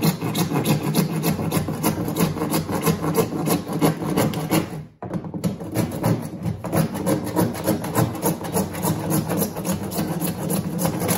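Hand saw cutting through a plastic pipe in rapid back-and-forth strokes, with a brief pause about five seconds in.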